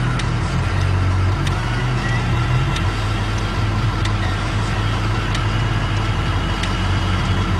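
Diesel locomotive engine running steadily as it pushes a railway snow plow, a constant low drone with sharp clicks at irregular intervals of about a second.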